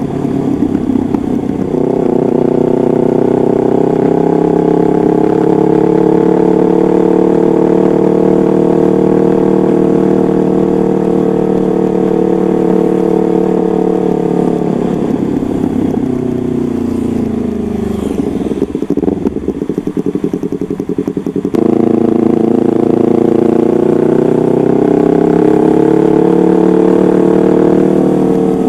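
Yamaha MT-25's parallel-twin engine through a custom aftermarket exhaust, revved and held at a steady raised speed for a long stretch. It then drops back to a lumpy idle, comes suddenly back up to the same held speed, and sinks again near the end.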